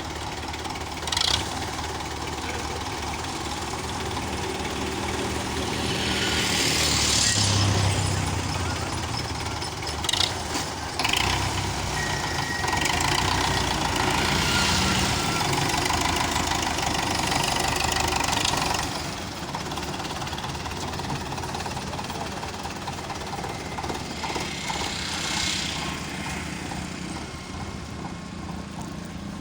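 Tractor diesel engine running steadily. Louder stretches of rushing noise come in about six seconds in and again from about twelve to nineteen seconds, with a couple of short sharp sounds.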